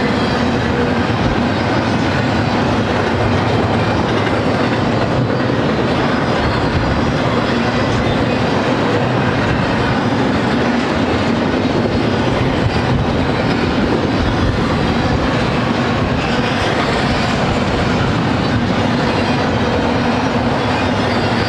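Double-stack intermodal freight train passing at a steady speed: the steady noise of its loaded well cars' steel wheels rolling on the rails, with a faint steady tone underneath.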